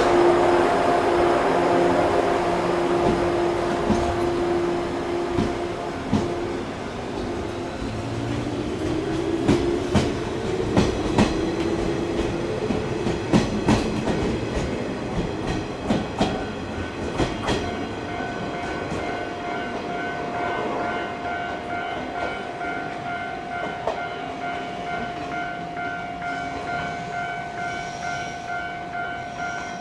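Shinano Railway electric train pulling out: a steady motor hum that fades away within the first few seconds, then a run of sharp clacks as the wheels pass over rail joints and points. From about halfway a steady, pulsing electronic tone sounds.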